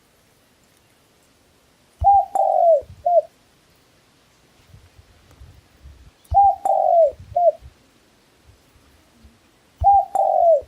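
A dove cooing: three times, roughly every four seconds, it gives a three-note phrase of a short note, a longer falling note and a short closing note.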